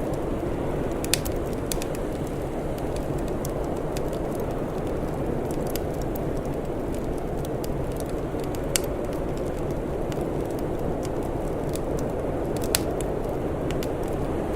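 Wood fire crackling with scattered sharp pops, three of them louder than the rest, over a steady low rumbling noise.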